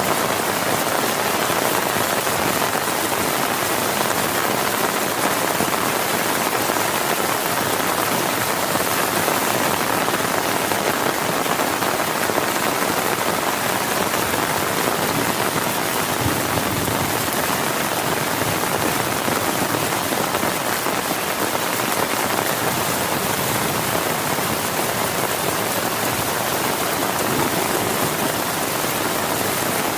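Heavy rain falling steadily on a tent, an even hiss with no thunder.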